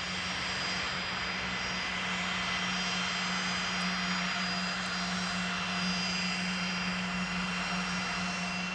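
Jet aircraft engines running steadily: an even hiss with a constant low hum, fading in at the start and easing off near the end.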